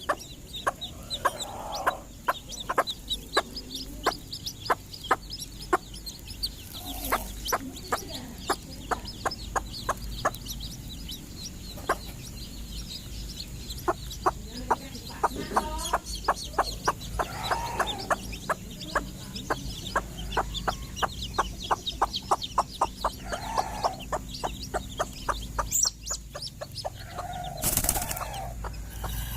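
Hen clucking now and then over a rapid run of sharp taps, several a second.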